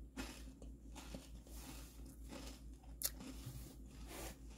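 Faint mouth-closed chewing of crunchy chocolate caramel cereal: irregular soft crunches, with one sharp click about three seconds in.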